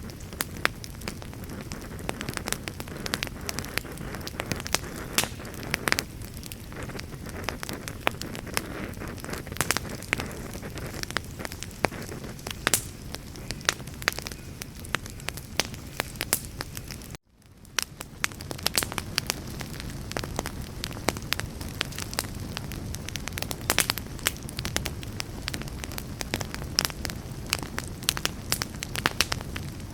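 Wood fire in a fireplace, crackling and popping steadily over a low rumble of flames. About seventeen seconds in, the sound cuts out abruptly and fades back in within half a second.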